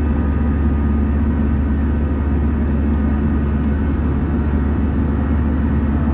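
Steady cabin noise inside an Airbus A320 in flight: the drone of the engines and the rush of airflow, with a low rumble and a constant hum.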